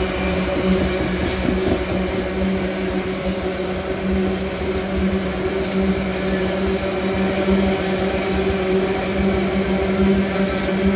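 Loaded iron-ore gondola wagons of a long freight train rolling past close by: the steady rumble of steel wheels on the rails, with a steady low hum underneath.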